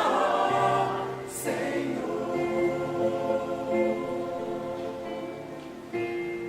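Church choir singing a hymn, holding long notes. It falls back in loudness about a second in, and a new phrase enters near the end.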